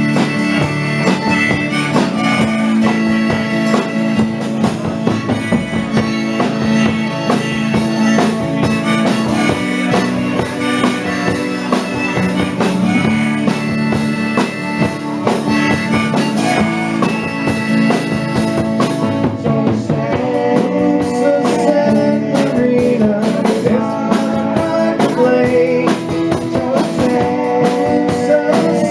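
Live band playing an instrumental break in a country-rock song: guitar over bass and drums, with a lead instrument carrying a wavering melody line in the second half.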